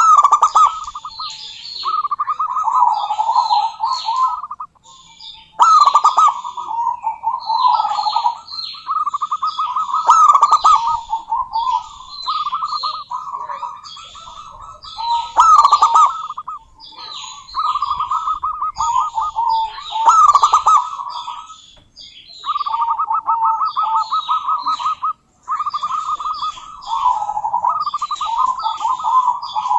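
Female zebra dove (perkutut) cooing, a rapid rippling staccato coo given in repeated phrases of two to three seconds with short breaks, with higher chirping notes over it.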